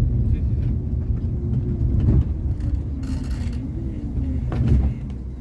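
Irizar i8 Scania coach under way on the highway: a steady low rumble of engine and road noise, with a short hiss about three seconds in.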